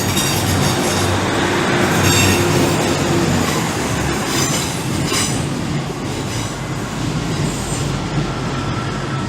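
A train running through the station: a steady rumble of wheels on rails, with short high squeals from the wheels about two, four and five seconds in.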